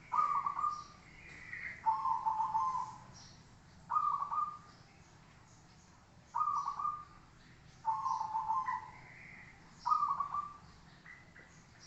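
Zebra dove (perkutut) cooing: six short, trilled coo phrases, each under a second long and coming about every two seconds. Fainter, higher calls sound in the gaps.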